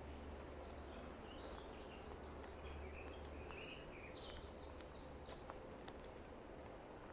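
Faint forest ambience: a small songbird calls with scattered high chirps, then a fast run of about a dozen short high notes near the middle, over a steady hiss and low rumble with a few soft clicks.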